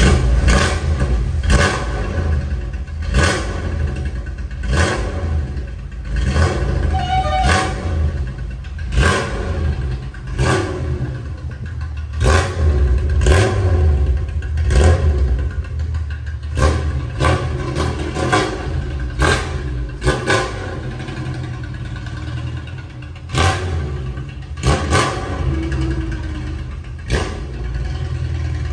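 The Nissan Skyline Hakosuka's L-series engine fires up and runs loudly through a twin-tip exhaust, with a deep rumble. The throttle is blipped repeatedly, about once every second or two, each blip a sharp bark from the exhaust.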